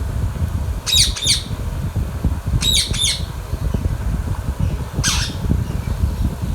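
Indian ringneck parakeet giving short, shrill squawks: two quick pairs, then a single call about five seconds in. A steady low rumble runs underneath.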